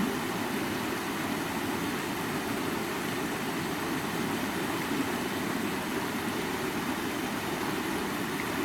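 Stream water running steadily over rocks, an even rushing sound without breaks.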